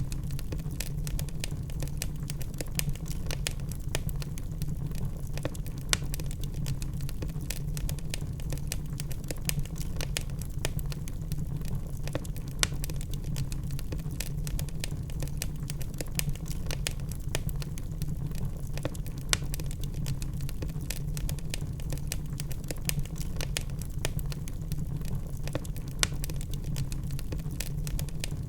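Wood logs burning in a fireplace, crackling with frequent irregular pops and snaps over a steady low rumble. A few snaps stand out louder than the rest.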